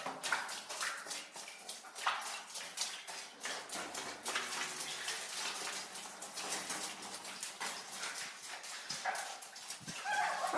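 Footsteps squelching and splashing through wet mud and shallow water on a tunnel floor, an irregular run of steps and sloshes.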